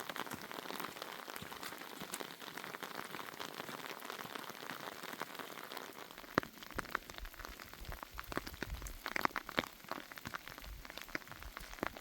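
Steady rain falling, with a run of sharp taps and knocks starting about halfway through.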